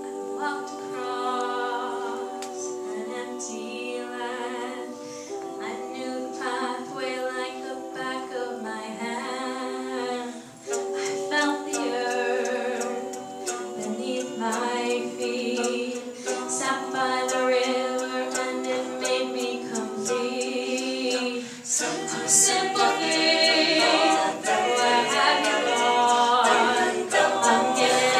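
A cappella vocal group singing in close harmony: several voices hold chords together and move to a new chord every few seconds. It swells louder with fuller voices about three-quarters of the way in.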